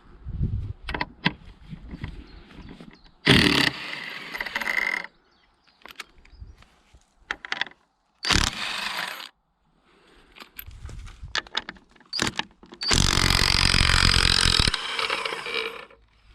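A power tool run in three short bursts of a second or two, with scattered knocks and clatter in between, as an old pegged wooden gate is taken apart.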